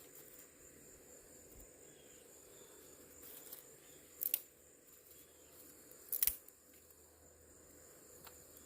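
Two brief dry clicks of small twigs being handled while laying a campfire, about four and six seconds in, over a faint steady high drone of insects.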